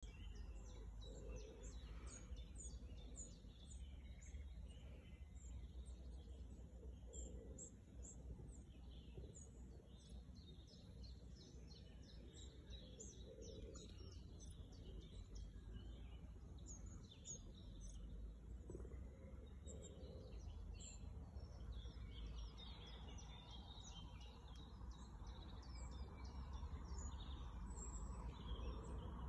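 Birds chirping faintly, many short high chirps over a low rumble.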